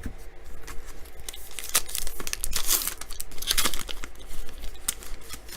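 A 2018 Topps Archives baseball card pack's wrapper being torn open and crinkled by hand, in several rasping tears with small crackles between them, loudest about two to four seconds in.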